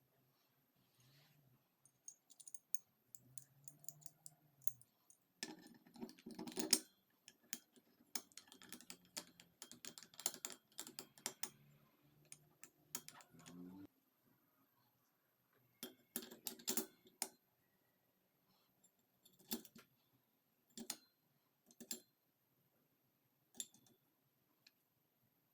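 Small metal engine parts and hand tools clicking and clinking as they are handled, in quick clusters of taps followed by a few single clicks near the end.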